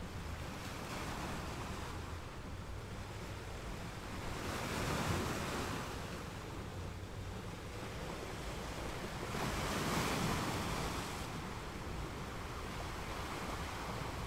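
Ocean waves washing in over a steady hiss, swelling twice, about five seconds in and again about ten seconds in.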